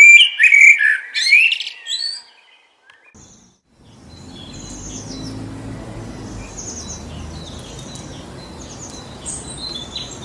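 A songbird singing loud, quick chirping phrases for about two seconds, then a short lull. From about four seconds in, wind blows steadily through forest trees while distant birds chirp faintly.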